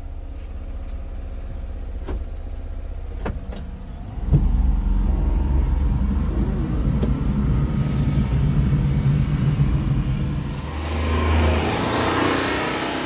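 A 1995 Honda Acty mini truck's small three-cylinder engine running, with a few sharp clicks in the first seconds. It gets suddenly louder about four seconds in and stays up, then turns into a rising rushing noise near the end.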